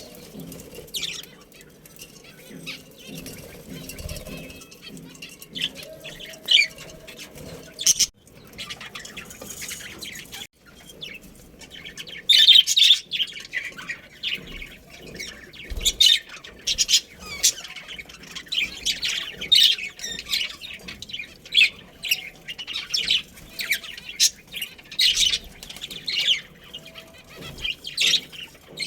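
A group of budgerigars chirping and chattering in short, sharp calls, sparse at first and becoming busier and louder from about halfway through.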